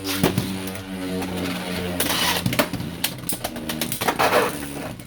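Two Beyblade X spinning tops whirring in a plastic stadium and clashing again and again, with many sharp hits that come thickest in the second half.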